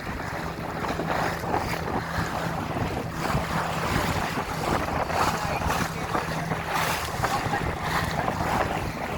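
A motorboat's engine running steadily under way, a low even hum, with wind buffeting the microphone and water rushing past the hull.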